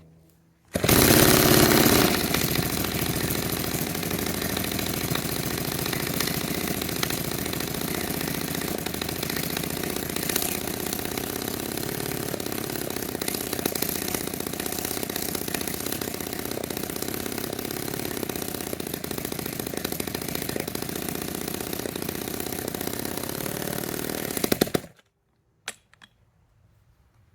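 Restored 1946 Power Machinery chainsaw's two-stroke engine running. It comes in suddenly about a second in, loudest for the first second, then runs steadily for over twenty seconds before cutting off abruptly near the end.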